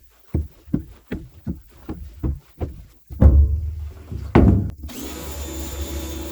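Rapid knocking, about three knocks a second, then two heavier thumps. Near the end an electric motor starts and runs steadily with a vacuum-like whine.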